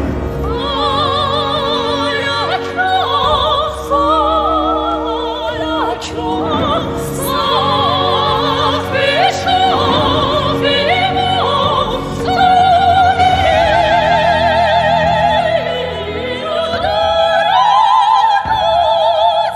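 Background music: an operatic singing voice with wide vibrato, carrying a melody over orchestral accompaniment.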